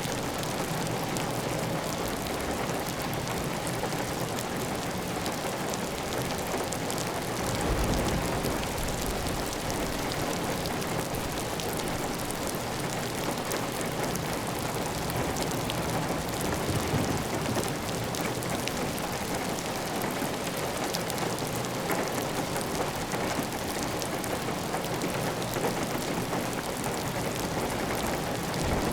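Heavy, steady rain on a clay tile roof, with water running off the roof edge in a constant rush. There is a brief low rumble about eight seconds in.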